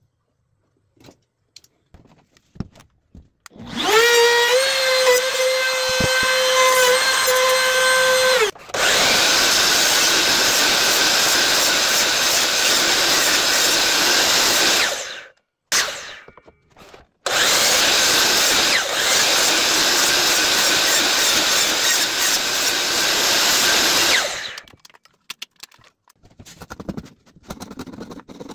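A handheld electric power tool spins up to a steady whine, then cuts into wood with a loud, rough noise for about six seconds. It stops briefly and cuts again for about seven seconds.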